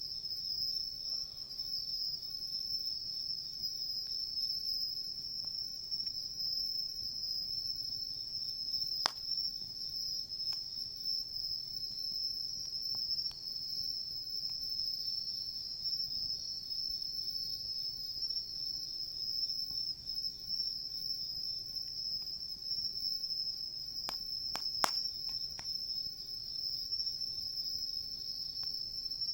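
Insects chirping in a steady, continuous high trill. A few sharp crackles from the wood fire: one about nine seconds in and a small cluster near twenty-five seconds.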